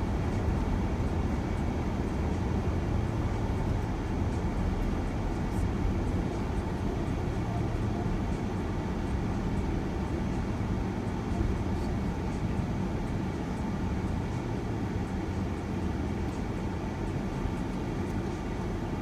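Steady road and engine noise inside a moving van's cabin: an even low rumble with a faint steady hum.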